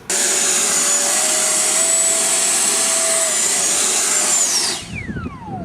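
70 mm 12-blade electric ducted fan with a 2W23 motor, kicking in suddenly at high power with a steady rushing whine. About four and a half seconds in it spools down, the whine falling in pitch as it fades.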